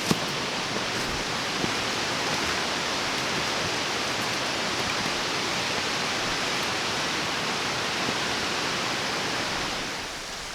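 Steady rushing of a mountain stream or cascade, an even hiss of falling water with a faint click near the start.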